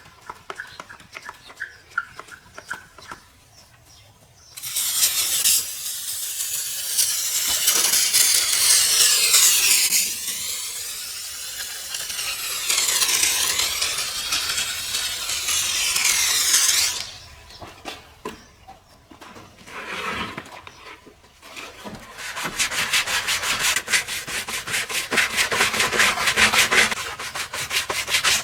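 Hard scrubbing against a surface. After a quiet opening, a long stretch of steady scrubbing starts about four seconds in and stops at about seventeen. Following a pause, quick rhythmic back-and-forth strokes take over for the last several seconds.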